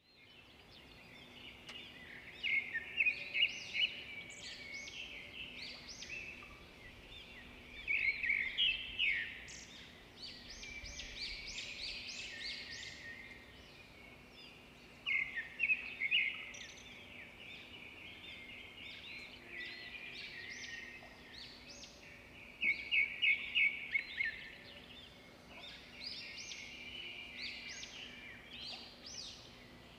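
Birds chirping and singing in bursts of quick, repeated notes every few seconds, over a faint steady hum.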